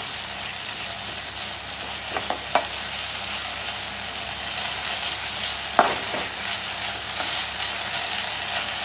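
Sliced onions sizzling in an aluminium kadai while a metal slotted spoon stirs them, with a few sharper scrapes of the spoon on the pan about two seconds in and again near six seconds.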